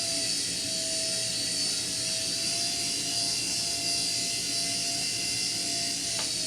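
Toy remote-control helicopter in flight: a steady, high electric-motor and rotor whine whose pitch wavers slightly.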